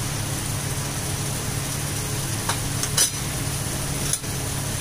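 Onion-tomato masala frying in oil in a steel kadhai, a steady sizzle over a constant low hum, with a few light clicks against the pan near the middle and end.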